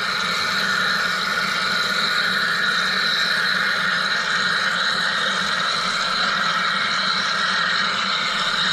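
Wire EDM machine running steadily: an even, unbroken hiss and whir over a low hum, with no change in pitch or level.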